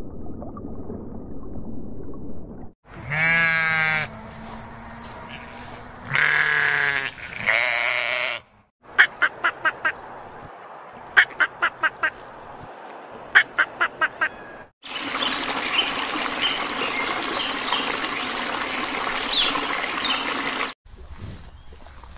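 A low steady rumble for the first few seconds, then ducks and geese calling: drawn-out honks, then three runs of about five quick, sharp quacks, then a flock's noisy chatter.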